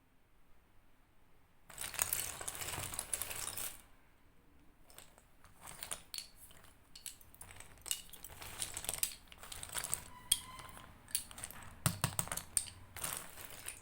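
Slate pencils crunching and cracking close to the microphone. A stretch of dense grating lasts about two seconds near the start, then comes a long run of sharp, irregular clicks and crackles.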